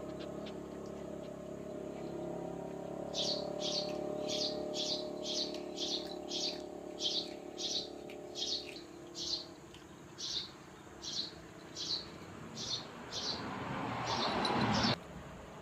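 A bird chirping the same short, high call over and over, about twice a second, from a few seconds in. A low steady hum runs under the first half. Near the end a rising rush of noise builds and cuts off suddenly.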